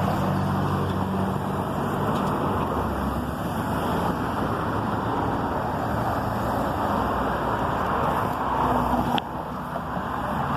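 Steady road-vehicle noise, a rush with a low engine hum under it, and a single sharp click about nine seconds in, after which it is a little quieter.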